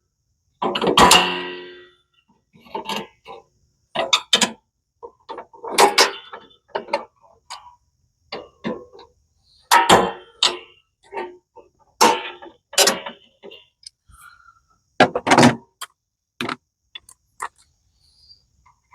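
Metal tools and parts clanking and clinking at irregular intervals, several strikes ringing briefly, as a lawn tractor's belt drive and tension spring are taken apart.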